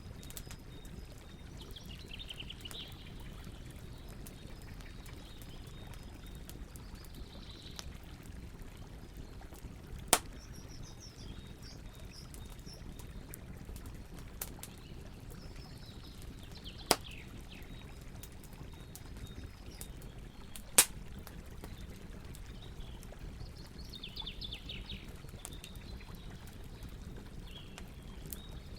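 Campfire burning with a steady low hiss and crackle, broken by three sharp pops spread through the middle. Birds chirp and trill in short descending phrases every few seconds.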